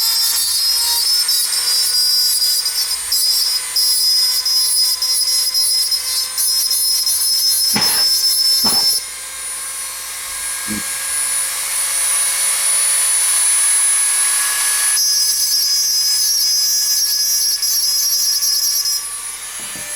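High-speed rotary tool grinding the burr off the end of a die-cast toy's axle: a steady high-pitched whine that dips quieter for a few seconds about halfway, with a couple of short knocks just before the dip.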